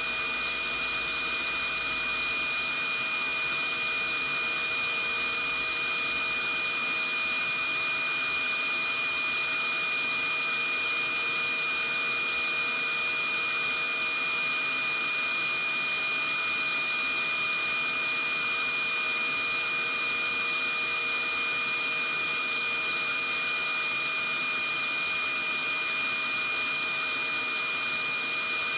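Vacuum cleaner running steadily: an even rushing hiss with a constant high-pitched whine from the motor.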